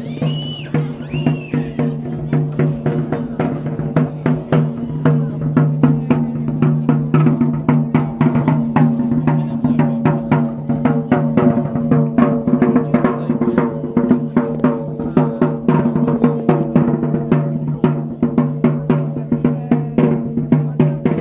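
Live folk music: fast, dense drumming over a steady held drone. Two short high gliding tones come about a second in.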